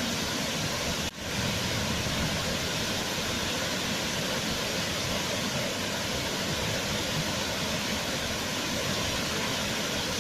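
Waterfall: a steady rush of falling water, with a brief dropout about a second in.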